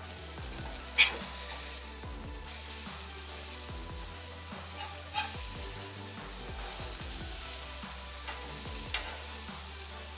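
Food sizzling on a hot flattop griddle, with sharp pops of spattering grease about a second in, near five seconds and near nine seconds.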